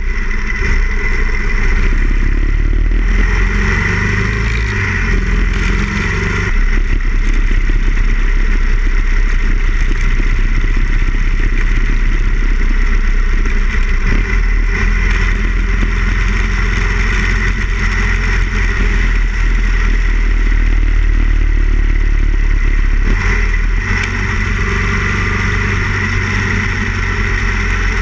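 Harley-Davidson Ironhead Sportster XL1000's air-cooled V-twin running under way. Its note shifts through the first several seconds as the bike pulls away, then holds steady at cruising speed.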